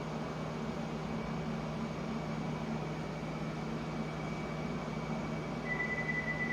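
London Underground train running with a steady rumble and hiss; a high, steady tone comes in near the end and holds.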